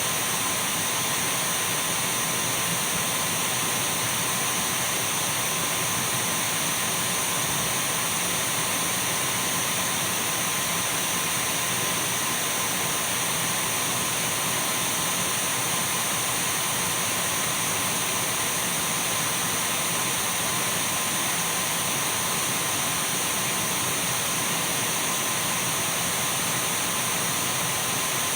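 Dyson V12 cordless stick vacuum cleaner running steadily: an even motor hiss with a thin high whine.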